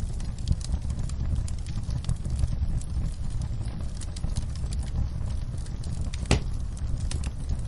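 Campfire burning: a steady low rumble with frequent small crackles and one sharp pop about six seconds in.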